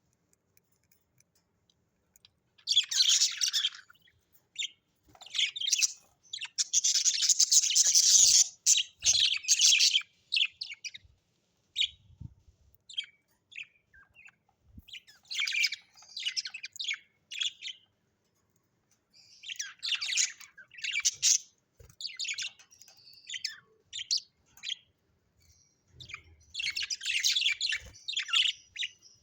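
Budgerigars chirping in repeated bursts of quick, high chirps, separated by short pauses.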